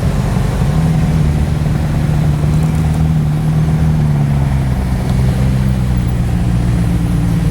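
A car engine running with a steady low note that eases slightly lower about four to five seconds in.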